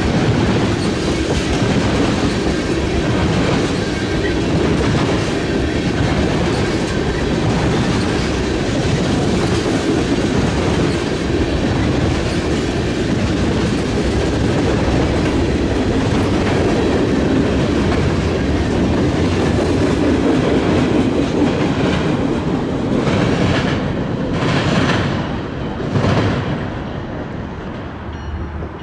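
Railroad cars rolling past with a steady rumble and the clickety-clack of wheels over rail joints. Near the end come a few louder strikes, then the sound drops off.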